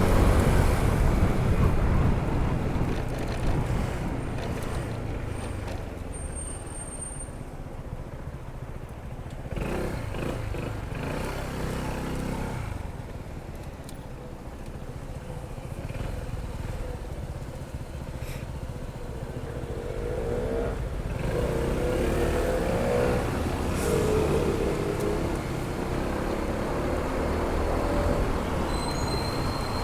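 Honda ADV 160 scooter's single-cylinder engine running under way, mixed with wind rush. The engine note rises and falls with the riding. It eases off for a while early on and picks up again in the second half.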